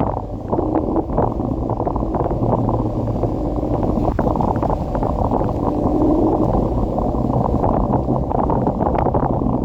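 Wind buffeting the microphone of a moving electric scooter, a steady low rumble with a faint hum and scattered light clicks.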